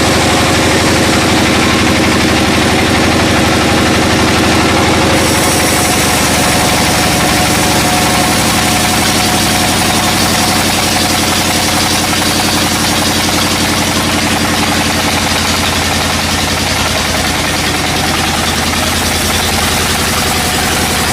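A heavy engine running steadily at an even speed. About five seconds in, a higher hiss joins it and stays.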